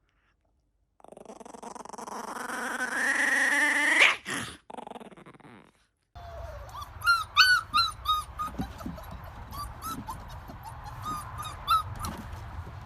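A dog whining in one long tone that rises steadily in pitch. After a break, there is a run of short, high-pitched whimpers and yips.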